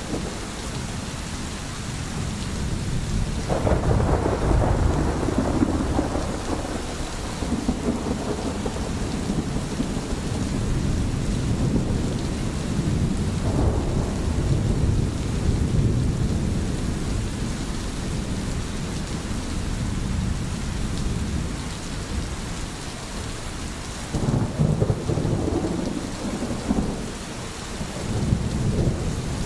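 Thunderstorm: steady rain with low rolling thunder rumbling underneath, swelling several times, most strongly about three and a half seconds in and again near the end.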